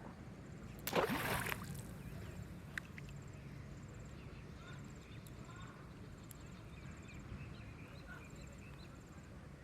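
A short splash of water about a second in, over a quieter, steady background.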